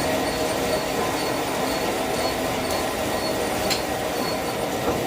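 Sawmill cutting through a mahogany log: a steady mechanical running drone with a few steady tones in it and a faint, regular light ticking. There is one sharp click about three and a half seconds in.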